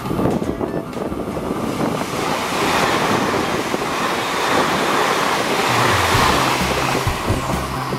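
Taiwan Railways TEMU2000 Puyuma tilting electric express train running through a station without stopping. Its wheels and the rush of air build into a loud, steady rushing from about two seconds in as the carriages sweep past close by.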